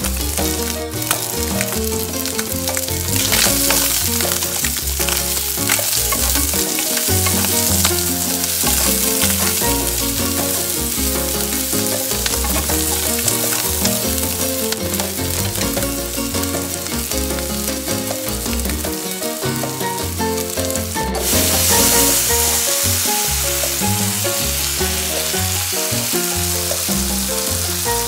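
Diced Spam and onion sizzling in hot oil in a nonstick frying pan, stirred now and then with a wooden spatula. The sizzle grows louder about three seconds in and again around twenty-one seconds in.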